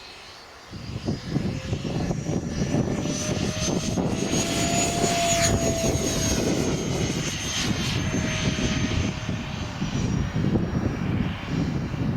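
Whine of a radio-controlled Freewing Me-262 jet's electric ducted fans as it flies past; the pitch rises slightly and then eases off. Heavy wind buffeting on the microphone starts about a second in.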